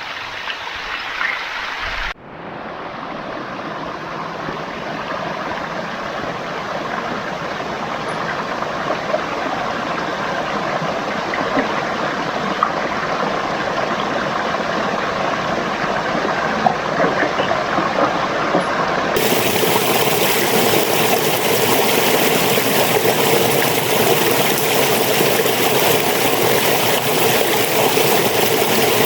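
Steady rushing of a flowing stream. It drops out briefly about two seconds in, then grows louder, with a fuller hiss from about nineteen seconds on.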